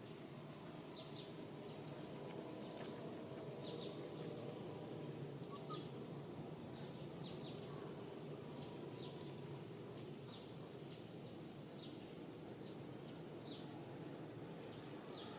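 Faint, short, high chirps of birds repeating irregularly, about one or two a second, over a steady low background hum.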